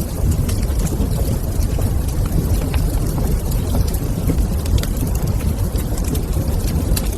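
Wood fire in a fireplace crackling: many small sharp pops and snaps scattered over a steady low rumble.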